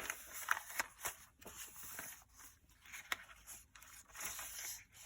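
Paper rustling with light clicks and taps as the pages, tags and pockets of a handmade paper journal are handled and turned.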